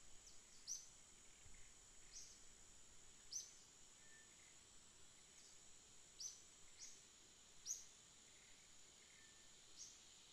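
Faint outdoor ambience: a steady high insect drone, with a bird giving several short, sharp high chirps at irregular intervals.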